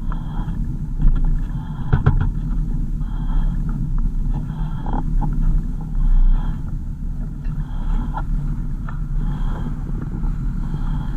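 Car driving: steady low engine and road rumble, with a faint short high tone recurring every second or so.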